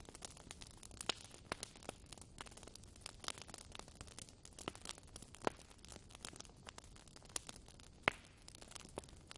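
Wood fire crackling in a fireplace: a soft steady hiss with irregular sharp pops and snaps from the burning logs, the loudest pops about five and a half and eight seconds in.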